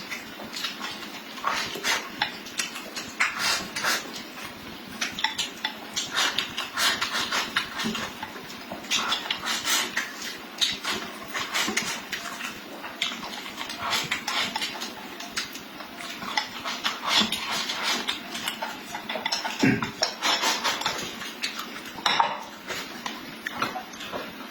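Eating sounds: chewing and smacking mixed with utensils clicking and clinking against dishes, in quick irregular bursts.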